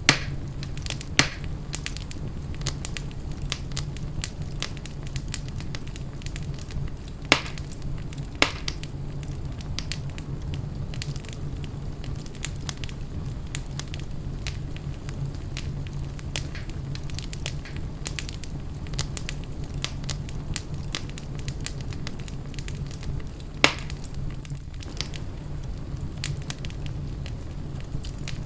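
Fire burning in a fireplace: steady crackling with frequent small clicks, over a low even rumble, and a handful of louder sharp pops, one right at the start, one about a second in, two around the middle third, and one near the end.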